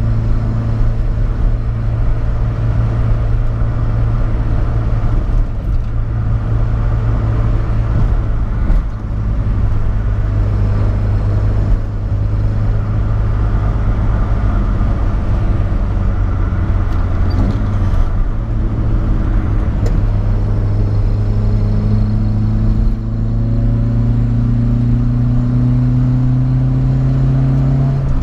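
1974 BMW 2002's M10 2.0-litre four-cylinder engine on Solex 40 PHH carburettors, running steadily under way, with two brief dips in the first half. From about two-thirds of the way in, the engine note rises steadily as the car accelerates, then drops suddenly near the end.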